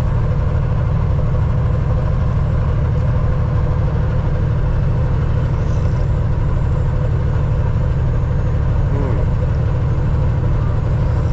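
Semi truck's diesel engine idling steadily, a deep even rumble.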